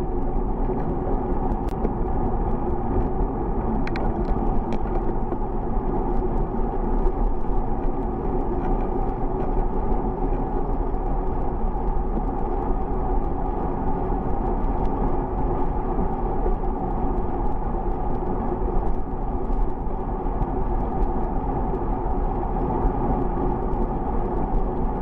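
Steady wind and rolling noise from riding a bicycle, with a strong low rumble and a few faint clicks about two and four seconds in.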